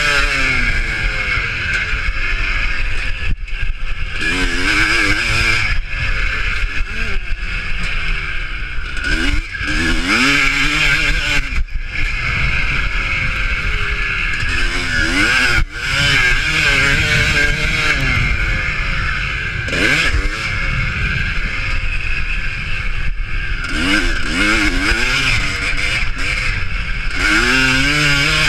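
Motocross motorcycle engines racing, their pitch rising under throttle and dropping again many times over.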